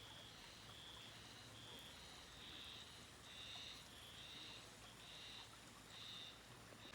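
Faint, high-pitched calls from a small animal, short notes repeated in a steady series about twice a second, over a faint low hum.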